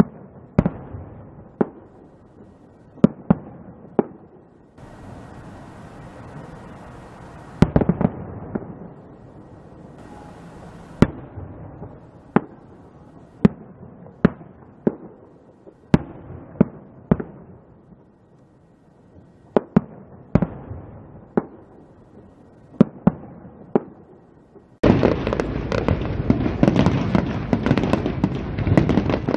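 Aerial firework shells bursting: a long series of sharp bangs, irregularly spaced about a second apart, some followed by a short crackle. About 25 s in it cuts abruptly to a much louder, dense continuous crackling of many shells bursting at once.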